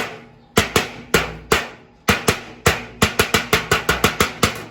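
A stainless steel tray struck repeatedly, about seventeen sharp metallic hits, each ringing briefly, the strikes coming faster in the second half.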